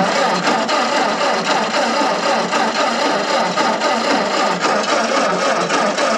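Carburetted gasoline engine, choked, catching and then running steadily just after starting.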